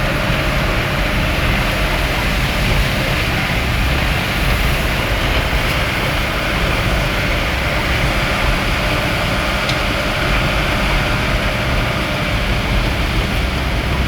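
Steady noise of a vehicle driving through heavy rain: engine and tyre rumble with the hiss of rain and wet road.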